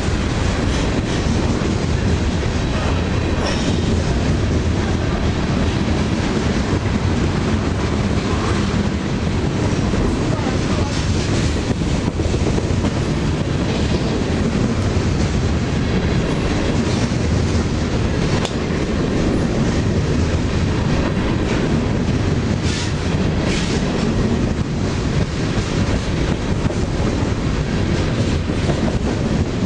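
Freight train of covered hoppers and boxcars rolling past close by: a steady loud rumble of the cars, with wheels clacking over rail joints.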